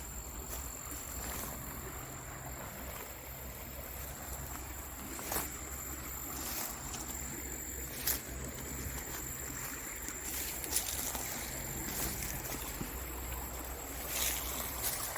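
Steady rush of a salmon stream's flowing water with some low rumble, broken by a few sharp clicks, and a faint steady high tone throughout.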